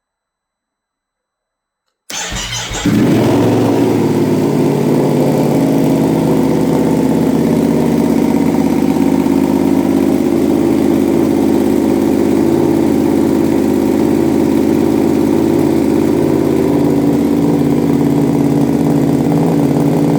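Ducati Panigale V2S's 955 cc L-twin engine cold-started through a full Termignoni titanium exhaust with the dB killers removed. After about two seconds of silence the starter cranks for under a second, the engine catches, and it settles into a loud, steady idle.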